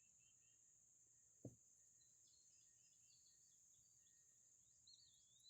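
Faint outdoor ambience: small birds chirping and a steady high-pitched drone, with one soft low thump about a second and a half in.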